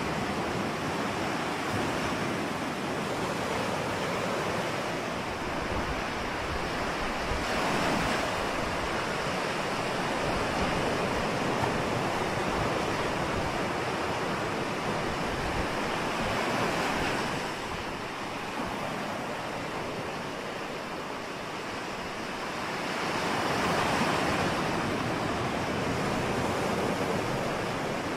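Ocean waves breaking and washing on a shore, a continuous surf with slow surges every several seconds.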